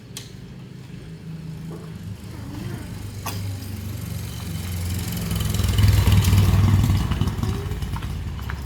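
Motorbike engine running, growing louder to its loudest about six seconds in, then easing off.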